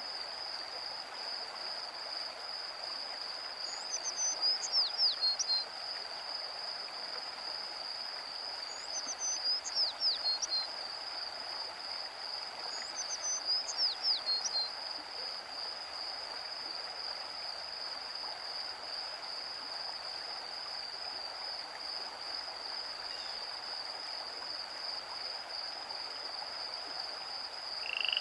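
Woodland ambience: a creek running steadily under a constant high-pitched insect drone. A songbird sings three short phrases of quick falling whistles, a few seconds apart.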